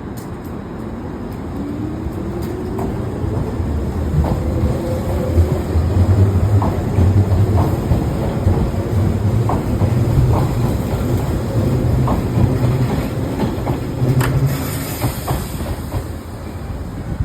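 Hanshin 5001-series resistance-controlled electric commuter train departing and accelerating. A rising traction-motor whine sounds over the first few seconds, over a heavy running rumble. The wheels clack over rail joints at a quickening pace, and the sound falls away near the end.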